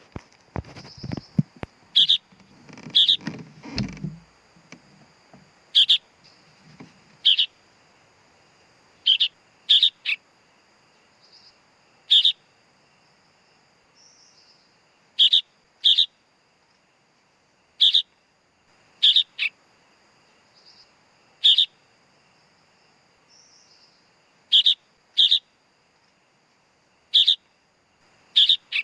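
Sooty-headed bulbul chick calling: short, sharp high calls repeated every second or two, often in quick pairs. Low knocks and rustling come in the first few seconds.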